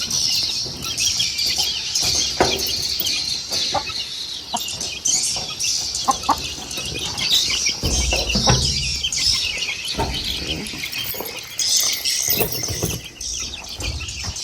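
Swiftlets twittering in a dense, continuous high-pitched chatter, with scattered low thumps and rustling from handling.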